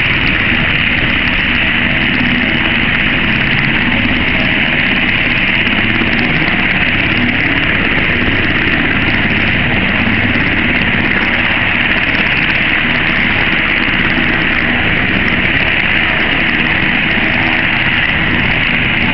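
MH-60 Jayhawk helicopter's engines and rotors running steadily, heard from inside the cabin as a loud constant drone with a high whine.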